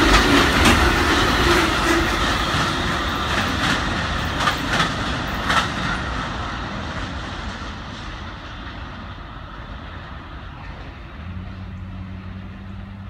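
Amtrak Auto Train autorack cars rolling past, steel wheels clacking over rail joints, the rumble fading steadily as the end of the train pulls away. A low steady hum comes in near the end.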